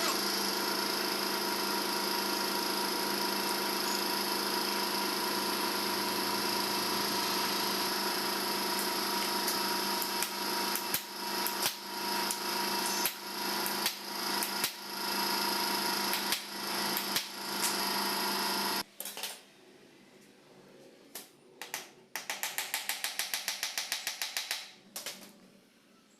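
Workshop tool sounds on an engine: a steady machine hum with a run of regular metallic knocks, roughly one every half second, that stops abruptly, followed by a few clicks and a brief fast rattle of rapid strikes.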